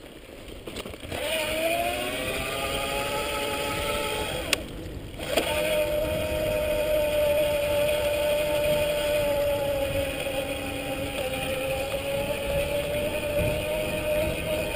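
Electric mountain bike's motor whining under power, its pitch rising as the bike picks up speed. It cuts out for about a second partway through, then comes back and holds a steady pitch over tyre and wind noise.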